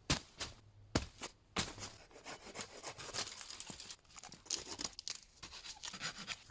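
Branches being cleared with a hand saw: a few sharp cracks, then quick saw strokes rasping through wood.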